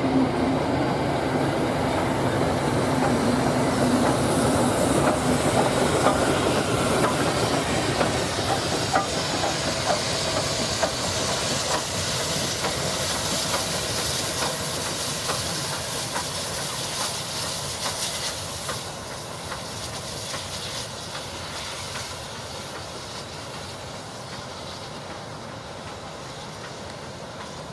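A train running past on the rails, its wheels clicking over the rail joints with a hiss, loudest at first and fading steadily as it draws away.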